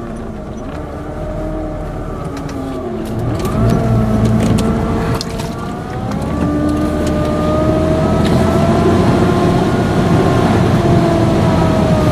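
Vehicle engine accelerating on a flooded street, its pitch rising in two steps, about three and six seconds in, then holding steady under continuous water and rain noise.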